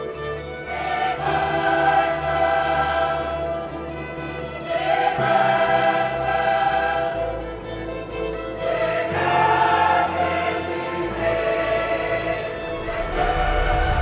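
Choral music: voices singing sustained chords over orchestral accompaniment, swelling in phrases about every four seconds.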